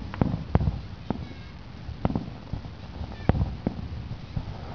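Aerial fireworks shells bursting at a distance: about eight sharp bangs at irregular intervals, several close together near the start and the loudest about three seconds in.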